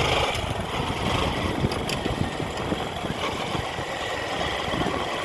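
A vehicle engine running steadily at a low, even pace, mixed with a dense noisy rumble.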